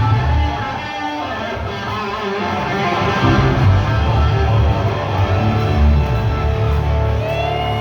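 Live rock band playing: electric guitar lines over a heavy bass line.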